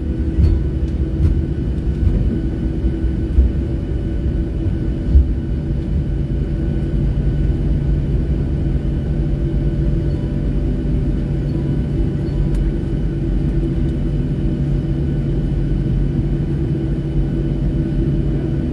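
Airliner cabin noise during landing: a steady low rumble of jet engines and airflow with a constant droning hum, and a few thumps in the first five seconds.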